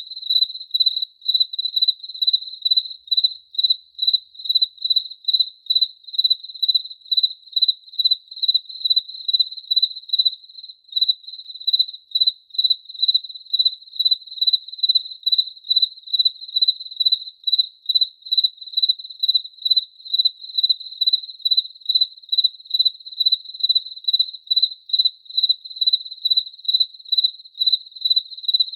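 Cricket chirping in a very even rhythm, about two chirps a second, on one high, pure tone.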